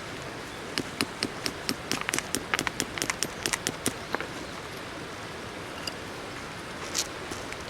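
A quick, uneven run of sharp clicks and knocks lasting about three seconds, with one more near the end, over the steady rush of a river.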